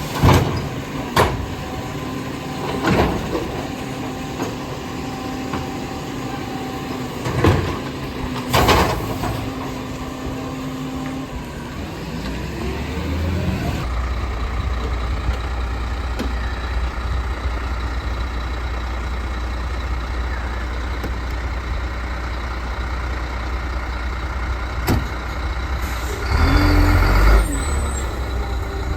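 Garbage truck at work: a few loud bangs and clatters over a steady hum in the first nine seconds, then the engine running with a steady low rumble, and a short loud burst near the end.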